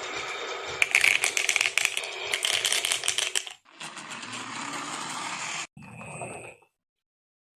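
Marbles rolling and clattering along a wooden HABA marble run, with a dense run of rapid clicks in the first few seconds. The sound cuts off abruptly twice and stops altogether near the end.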